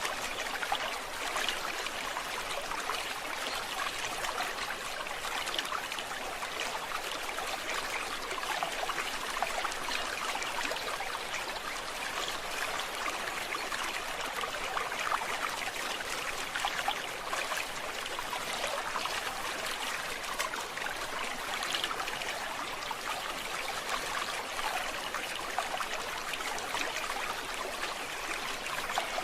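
A stream babbling steadily, an even rush of trickling water with no breaks.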